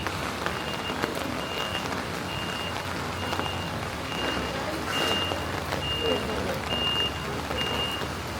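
A vehicle's reversing alarm beeping: short, high, single-pitch beeps repeating a little more than once a second, over steady city-street noise.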